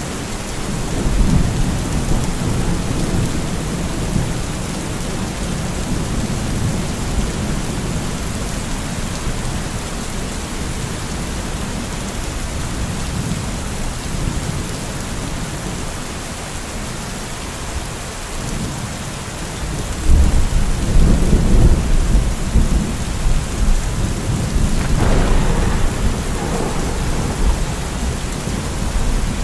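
Rain falling steadily in a thunderstorm, with low rolling thunder underneath; a louder peal of thunder breaks in about two-thirds of the way through and rumbles on.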